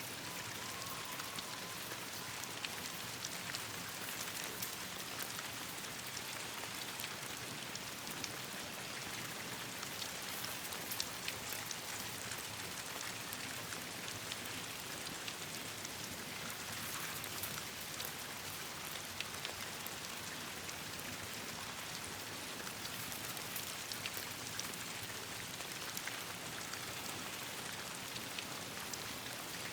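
Steady rain falling, an even hiss with many small sharp ticks scattered throughout.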